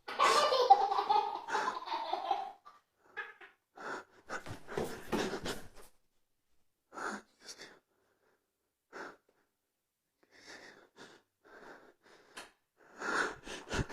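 A person's voice without words: a pitched cry in the first two seconds or so, then irregular short breathy bursts with gaps between them.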